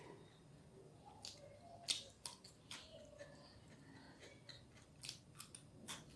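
Crisp crunches of raw cucumber sticks being bitten and chewed: a handful of sharp crunches, the loudest about two seconds in, and another few near the end.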